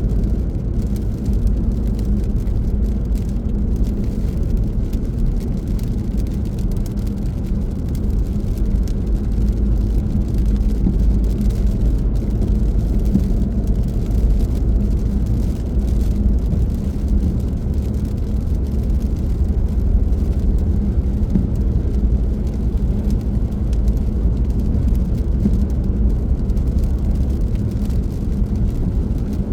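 Car driving steadily: a constant low rumble of road and engine noise that holds even throughout.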